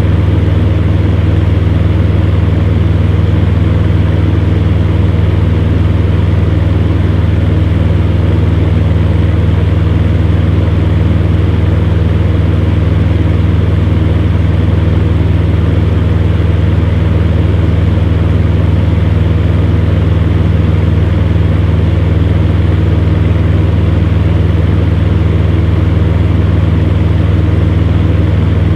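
Electric fan heater running steadily: a strong, even low hum from its motor with the rush of blown air over it, unchanging throughout.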